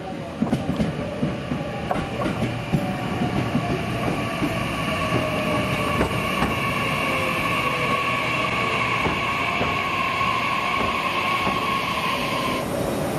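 A train running through a station. Its wheels clatter over the rail joints in the first few seconds, then a steady high whine carries on, with one tone slowly falling in pitch.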